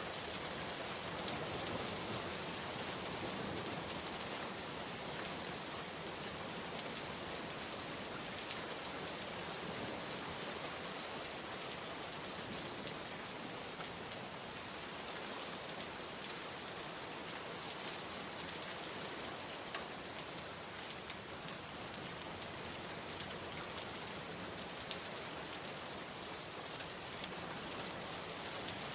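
Steady rain falling and pattering on a surface, an even hiss of dense drops with scattered individual drop ticks.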